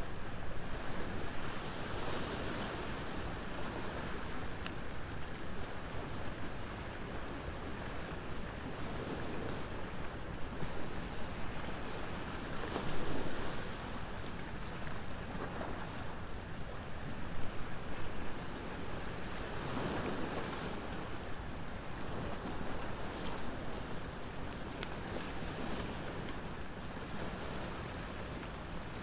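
Sea waves washing ashore, swelling and falling back every few seconds, under the crackle and occasional pop of a wood bonfire.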